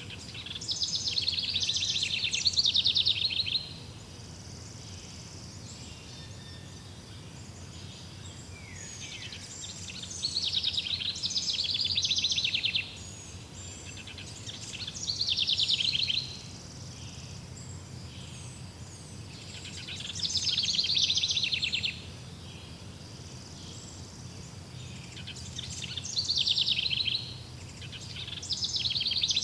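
A songbird singing loud, fast-trilled, high-pitched phrases, each one to three seconds long, six times with pauses of a few seconds between them. A steady low background noise runs underneath.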